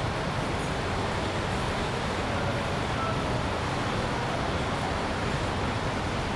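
Steady urban traffic noise: a continuous hum of road vehicles, with no single sound standing out.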